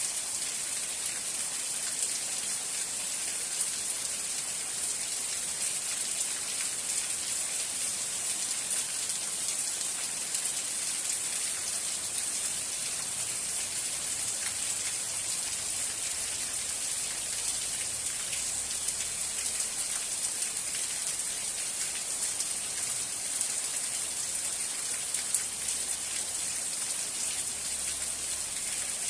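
Steady rain falling, a dense even hiss of many small drops pattering on a surface, with no let-up.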